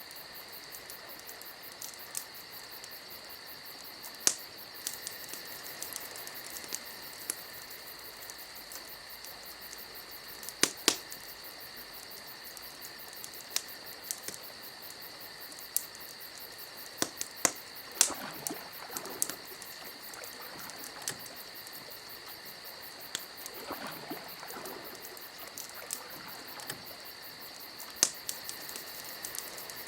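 Campfire crackling: irregular sharp pops and snaps over a steady high hiss, with a few louder pops.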